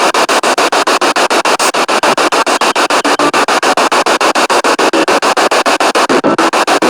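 Spirit box radio sweeping through stations: loud static chopped into short bursts about eight times a second, with brief fragments of broadcast sound caught between the gaps.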